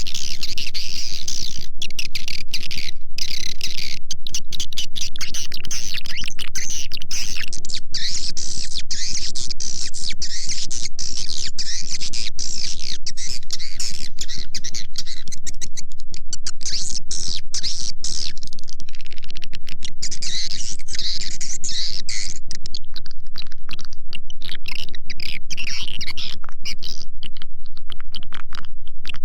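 Swiftlet lure call: dense, unbroken chirping and twittering of a flock of edible-nest swiftlets, a looped call sound played to draw swiftlets into a swiftlet house.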